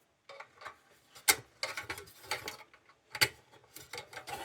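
Light metallic clicks and rattles as a large tubular lantern's wire bail and sheet-metal frame are handled, with two sharper clanks about a second in and again past three seconds.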